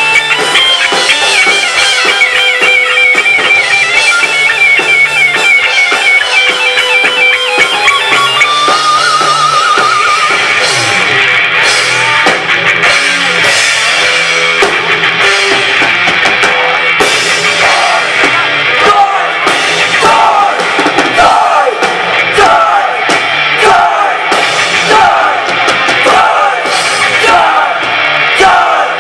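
Rock band playing live: a guitar lead holds wavering high notes and climbs in pitch over the first several seconds. The full band follows with drum kit, the drum hits strong and regular through the second half.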